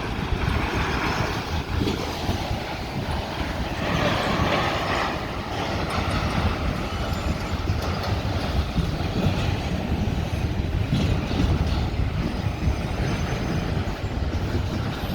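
Freight train cars rolling past with a steady rumble of wheels on the rails, swelling briefly about four seconds in.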